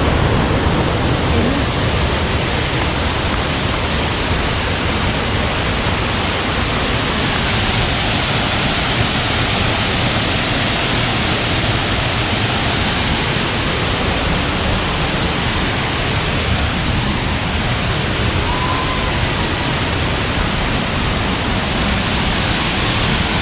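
Kadiyanlena (Kataboola) Ella waterfall: a steady, even rush of falling water, close and loud.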